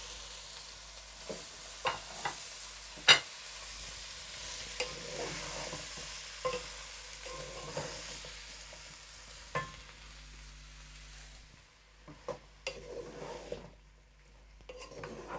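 Chopped tomatoes and onions frying in butter in a metal pot, sizzling steadily while a wooden spatula stirs them, scraping and knocking against the pot, with one sharp knock about three seconds in. The sizzle dies down near the end, leaving a few scrapes and knocks.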